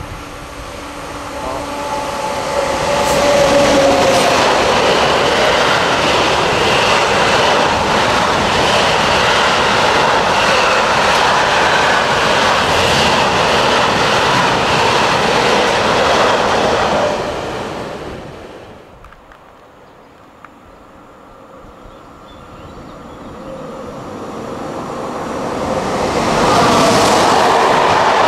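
BB 26000 electric locomotive and its string of covered hopper wagons passing close by: the sound builds over the first few seconds, stays loud and steady for about thirteen seconds, then fades. After a short lull, a second electric train, a BB 7200 with TER coaches, approaches and passes, loud again near the end.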